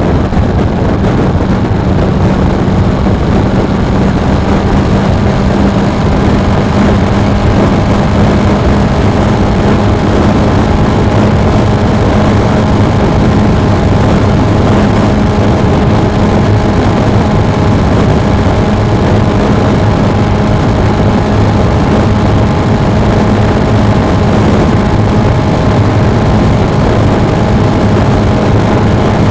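Suzuki V-Strom DL250's parallel-twin engine running at a steady, unchanging pace under loud wind noise on the action camera's microphone.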